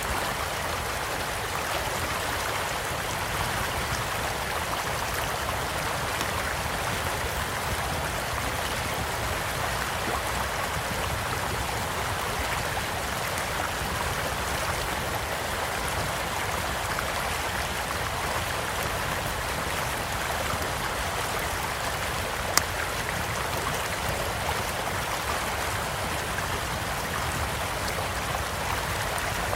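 Small stream flowing steadily beside a campfire, with faint scattered crackles from the burning wood and one sharp, loud pop about three-quarters of the way through.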